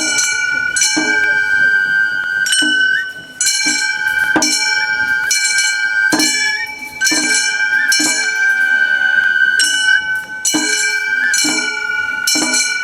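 Gion bayashi festival music: a high bamboo transverse flute holds a long melodic line with small ornaments, over small hand gongs (kane) struck in a steady rhythm, roughly one to two strokes a second.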